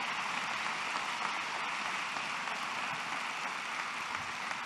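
Audience applauding steadily in a large room: an even clatter of many hands clapping.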